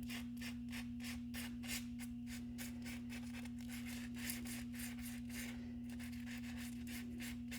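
Sandpaper rubbing back and forth on the curb-rashed edge of an alloy wheel, in quick even strokes about three a second, smoothing the damage before touch-up paint.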